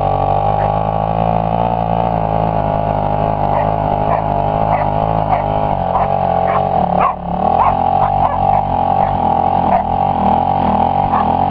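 Suzuki DR350 dirt bike's single-cylinder four-stroke engine running steadily, its revs wavering up and down a little. The throttle drops off briefly about seven seconds in, then the engine picks back up.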